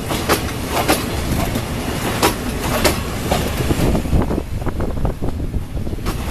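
Passenger coaches rolling past on the track, a steady low rumble with repeated sharp clacks as the wheels cross rail joints.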